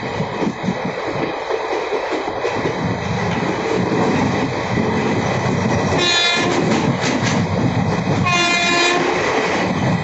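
Passenger train running along the track, wheels rumbling and knocking, with the locomotive horn sounding twice: a short blast about six seconds in and a slightly longer one near the end.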